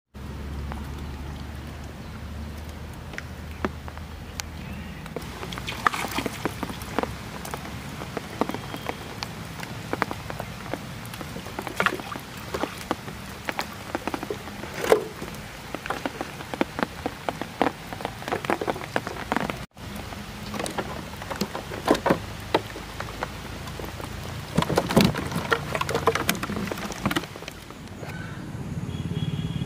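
Rain falling on the surface of a canal: a steady patter of drops with irregular sharper ticks and splats.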